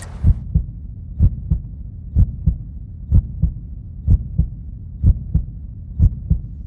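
Heartbeat sound effect: slow lub-dub double thumps, about one pair a second, over a low steady hum.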